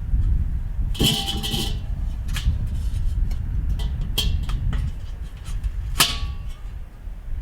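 Metal parts of a charcoal kettle grill clinking and clattering as they are fitted together: a ringing metallic rattle about a second in, scattered clicks, and a sharp clank about six seconds in, over a steady low rumble.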